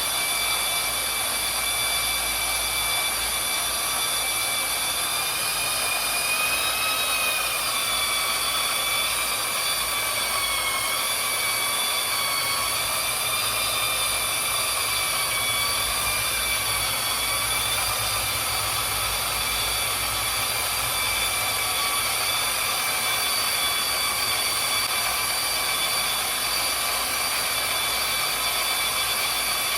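Small electric motors whining steadily, several high tones that drift slightly up and down in pitch over a hiss.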